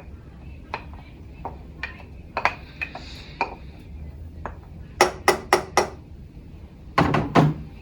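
A spoon scraping and clinking against a jar of pasta sauce and the pot, getting the last of the sauce out: scattered clicks, with a quick run of four knocks about five seconds in and three more near the end.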